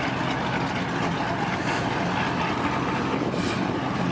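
Car engine running steadily at a low, even drone, with no revving.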